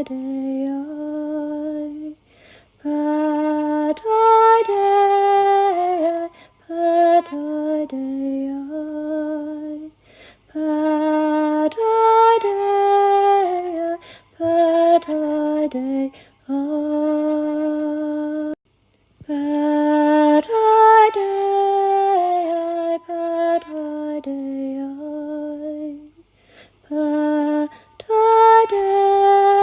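A woman's solo voice singing slow, lullaby-like melodic phrases with no accompaniment, each phrase a few seconds long and separated by short breaths, with a brief full pause just past the middle.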